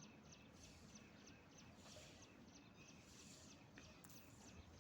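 A small bird chirping faintly over low outdoor background noise: short high chirps repeated evenly, about three a second.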